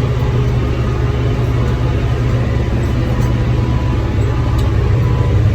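Tractor engine running steadily under load while pulling a small square hay baler at work, a loud, even low rumble.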